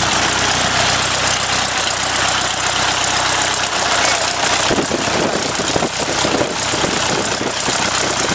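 Light aircraft's piston engine idling on the ground, a steady drone that turns rougher and more uneven about halfway through.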